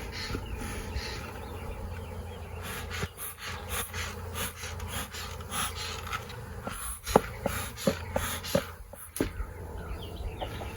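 Honeybee colony humming from an opened hive, with scattered clicks and knocks as the wooden hive boxes and frames are pried apart and handled. A few sharper cracks come about seven to nine seconds in.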